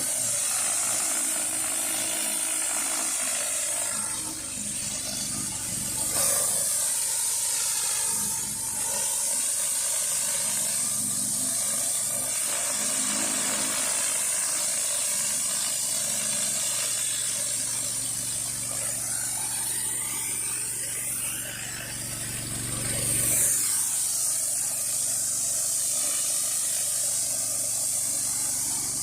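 Whisper Wash Ultra 16-inch surface cleaner running over concrete: a steady high hiss of pressure-washer spray under the spinning deck, over a low steady hum. It swells briefly about twenty-three seconds in.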